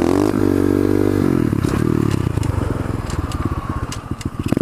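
Pit bike's small single-cylinder engine revving up, held briefly at higher revs, then dropping back to a lower, uneven run with some ticking and clatter near the end.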